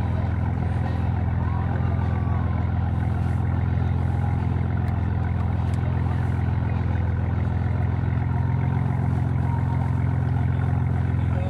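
Tuned 750 hp BMW M4's twin-turbo straight-six running steadily at low revs as the car creeps along, picked up by a microphone mounted at the back of the car.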